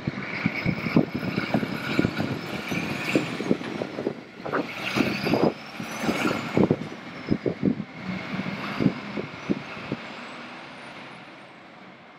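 Fire truck driving past on an emergency call: engine and road noise with irregular thumps and crackles of wind on the microphone, and a faint siren sweeping up and down. It grows quieter near the end.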